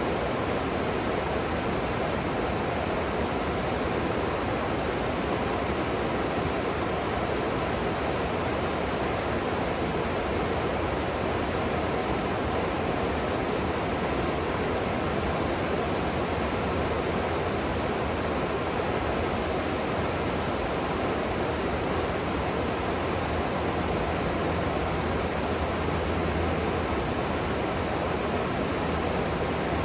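Steady rush of flowing river water, an even hiss with no breaks. A low rumble grows slightly stronger about three-quarters of the way through.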